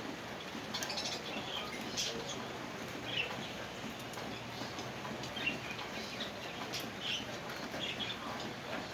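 Small, scattered metallic clicks and scrapes from working a battery terminal bolt and nut by hand as the nut fails to catch on the bolt. Birds chirp intermittently over a steady background hiss.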